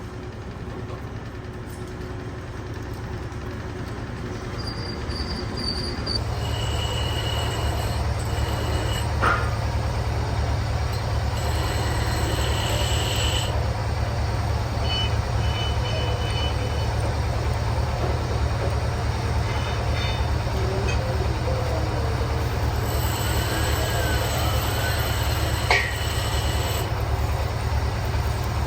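Heavy boring machine running and cutting a large steel pipe: a steady, fast-pulsing machine hum that builds up over the first six seconds, with intermittent high squeals of metal on metal and a couple of sharp knocks.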